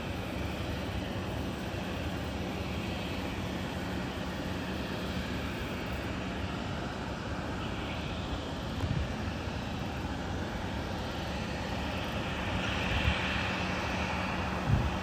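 Jet airliner engines of a Boeing 787-8 heard at a distance across the airport, a steady even noise with a faint constant hum. Two brief low thumps, about nine seconds in and near the end.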